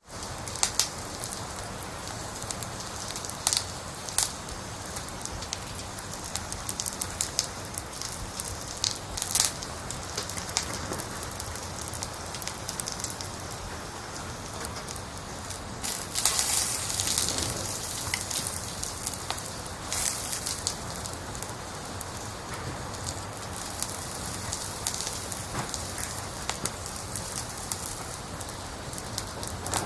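Wood fire crackling over a steady hiss, with frequent irregular sharp pops.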